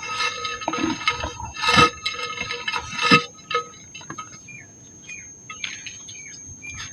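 Dry pink mud being crumbled, with crackling and crunching that is loudest in two bursts about two and three seconds in, then thinner, scattered crackles.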